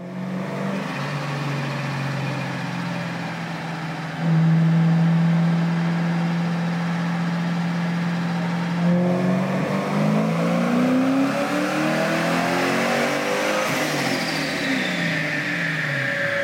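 A 2006 Mustang GT's Vortech-supercharged 4.6-litre V8 with Flowmaster mufflers, run on a chassis dyno. It runs steadily and gets louder about four seconds in. From about nine seconds it makes a full pull, its pitch rising to a peak, then falls off with a high whine sliding down.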